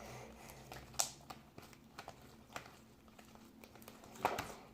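Light handling noises: scattered soft clicks and crinkling, with a sharp click about a second in and a louder rustle near the end.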